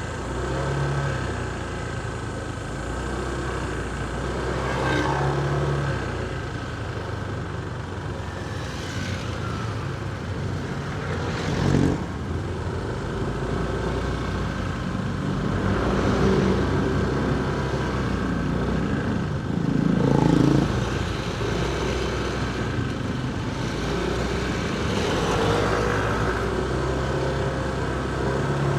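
Motorcycle engine running as it rides through city traffic, its note shifting with the throttle, with other vehicles passing. Louder swells come about twelve and twenty seconds in.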